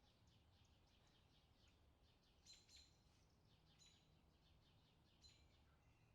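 Faint bird chirping: a steady run of quick short chirps, with a few louder ones in the middle, over a low steady background rumble.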